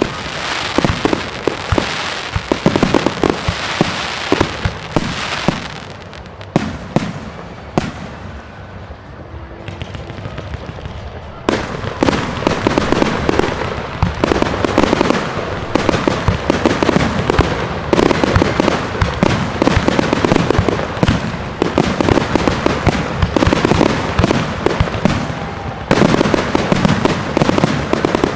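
Fireworks display: rapid, dense crackling bangs and pops. They thin out about a third of the way in, then break out suddenly again, thick and continuous, about twelve seconds in.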